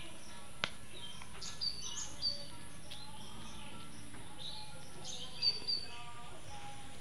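Small birds chirping in short, high notes, in two brief clusters, over steady outdoor background noise; a single sharp click comes under a second in.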